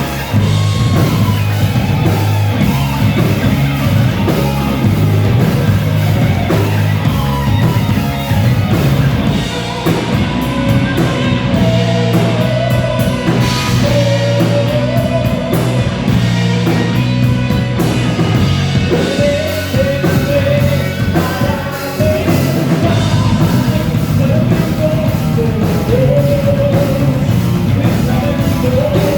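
Rock band playing live, with drums and heavy guitar, and a sung vocal melody that comes in around the middle.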